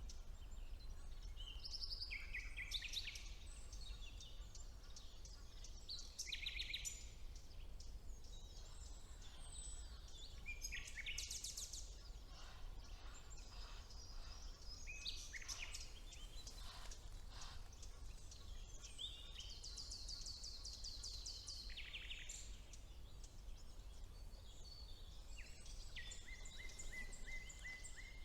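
Several songbirds singing in a spring forest: short varied phrases, whistles and fast trills of repeated notes follow one another, with a faint steady low rumble underneath.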